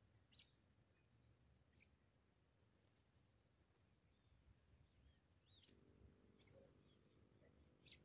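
Faint, scattered short bird chirps, a few seconds apart and some with a quick curving pitch, over a quiet background.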